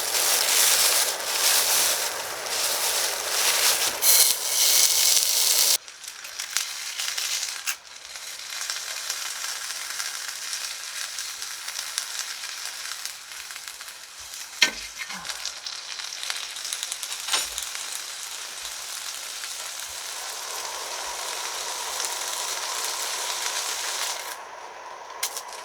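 Frozen pork belly sizzling in a hot pan, loud at first and dropping suddenly to a quieter sizzle about six seconds in. Two short knocks come around the middle.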